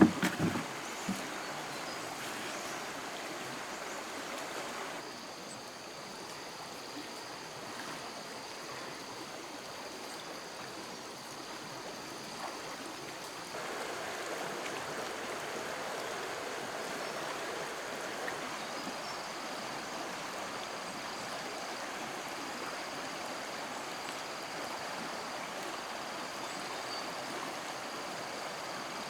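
Steady rushing of flowing stream water, growing a little fuller about halfway through, with a short loud knock right at the start.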